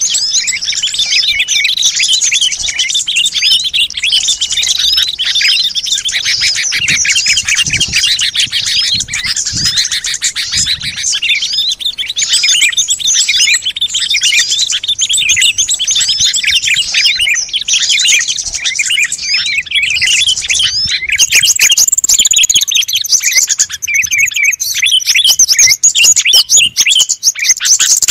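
Dense, continuous chattering and chirping of many small songbirds, a bird-lure recording. About two-thirds of the way through it changes abruptly to higher, thinner twittering.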